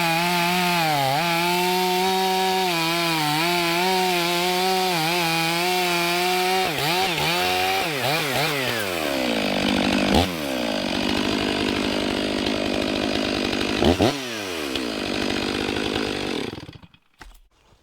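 Stihl chainsaw cutting buttress wood off a large white pine log, the engine running steadily under load with its pitch sagging and recovering as the chain bites. About seven seconds in it revs up and down with two sharp throttle blips, then stops abruptly near the end.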